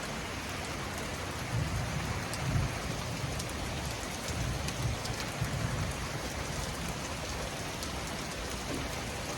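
Torrential rain pouring steadily, with scattered drops ticking close by. A low rumble rises and fades twice, a couple of seconds in and again in the middle.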